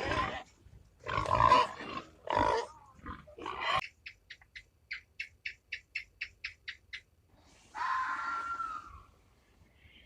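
A sequence of animal calls: several loud, short calls in the first four seconds, then a run of rapid, evenly spaced clicks for about three seconds, then a single call that falls in pitch.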